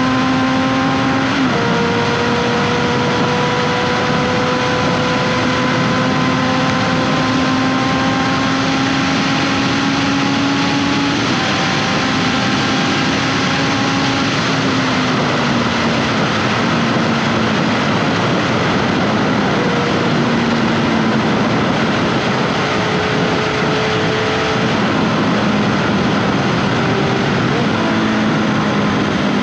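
Honda CBR 650F's 649 cc inline-four running through an SC-Project exhaust under way. The engine pitch climbs slowly in each gear, with gear changes about a second and a half, eleven and fourteen seconds in, then lower and more varied in the second half as the bike slows and shifts. Heavy wind noise runs beneath.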